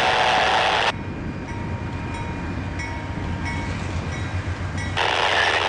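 Norfolk Southern freight train rolling by: a steady low rumble from the train, with a loud hissing burst that cuts off about a second in and another that starts near the end.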